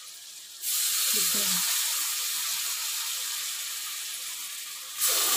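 Raw brain dropped into hot oil and fried masala in a kadhai, setting off a sudden loud sizzle about half a second in that slowly dies down, then flares up again near the end.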